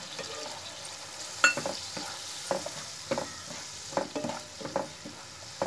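Halved grapes frying in ghee in a non-stick kadhai, sizzling steadily, while a spoon stirs them and knocks and scrapes against the pan at irregular moments. There is one bright clink about a second and a half in.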